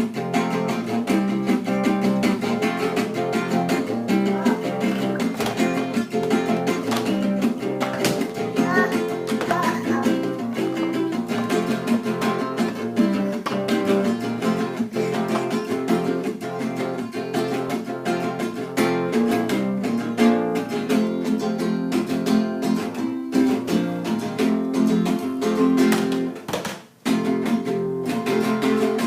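Acoustic guitar music, plucked and strummed, cutting out briefly near the end.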